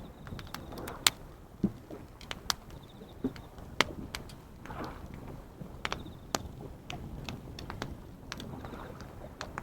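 Wood campfire crackling, with irregular sharp pops and snaps, a couple of them loud, over a steady low rush of ocean waves. A faint insect trill comes in briefly about three seconds in.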